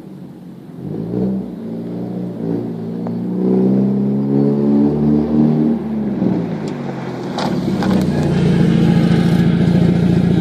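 1994 Mazda Miata's four-cylinder engine through a Megan Racing cat-back exhaust: the note climbs in pitch under acceleration for a few seconds, drops away, then holds a louder, steady drone near the end.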